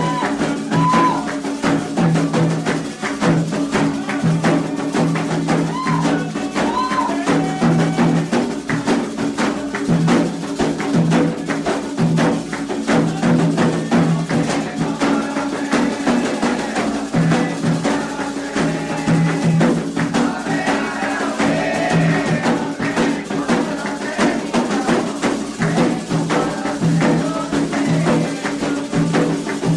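Candomblé ritual percussion: atabaque hand drums playing a steady, fast rhythm, with a struck agogô bell keeping time.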